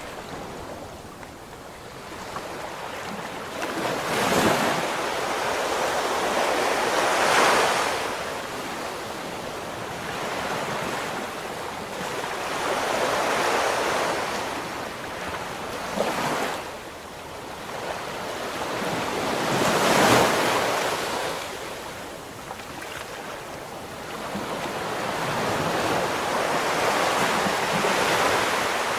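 Ocean waves breaking and washing up the shore, one after another. Each swells to a rushing peak and fades over a few seconds; the biggest break near the start and about two-thirds of the way through.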